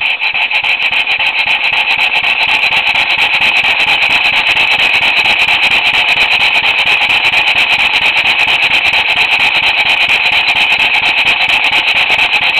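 Ray Hasbrouck No. 10 reversing column model steam engine running on compressed air: rapid, regular hissing exhaust chuffs. It picks up speed right at the start, then runs fast and steady.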